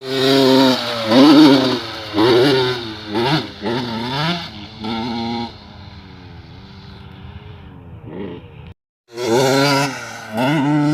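Motocross dirt bike engine revving in repeated loud bursts, its pitch rising and falling with the throttle. It settles to quieter, steadier running, cuts out for a moment near the end, then comes back loud.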